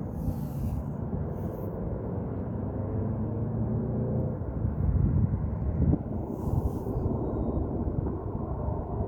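Airbus A320-200 jet airliner on landing approach passing overhead: a steady low rumble from its twin jet engines with faint engine tones, swelling slightly about five seconds in.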